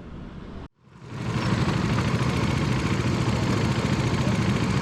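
A motorcycle engine running steadily close by, cutting in loud after a brief dropout about a second in.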